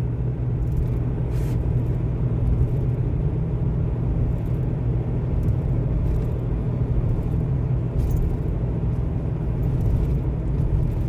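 Steady engine drone and road rumble heard inside a truck cab cruising on the highway at about 62 mph.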